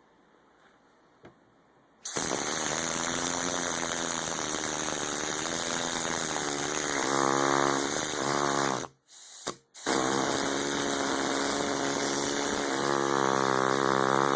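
Small homemade single-cylinder air engine, with a brass piston and spring return, cycling rapidly on about 40 psi of compressed air: a loud, fast mechanical buzz with air hiss. It starts about two seconds in, its pitch rises as it speeds up, it stops for about a second near nine seconds, then runs again and speeds up once more.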